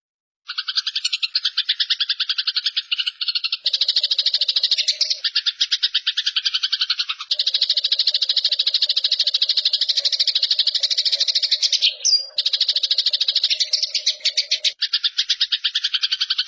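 Eurasian tree sparrow giving its harsh, rapid chattering fight call ("nyerecet"), a fast run of rasping notes that starts about half a second in and continues with only brief breaks.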